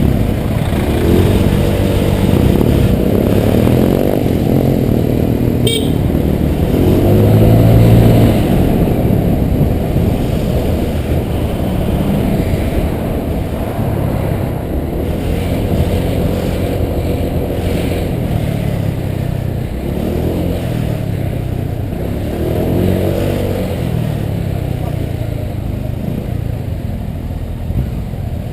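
Honda PCX 125 scooter's single-cylinder engine riding in stop-and-go traffic, its pitch rising and falling several times as it speeds up and eases off, over a steady low rumble of wind and road noise.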